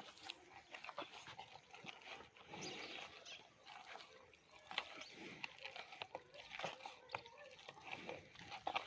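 Kundhi buffalo eating fodder: faint, irregular crunching and munching with many small clicks.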